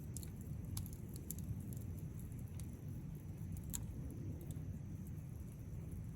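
Wood campfire crackling: sharp pops and snaps at irregular intervals over a steady low rumble of burning.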